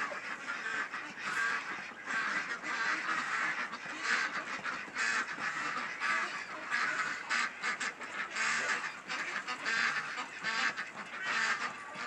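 Birds calling over and over in a ragged, irregular run, with a few sharp clicks among them.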